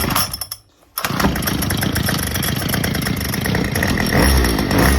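Craftsman gas string trimmer (weed eater) cold-starting on a second pull: the engine catches about a second in and keeps running with rapid, steady firing.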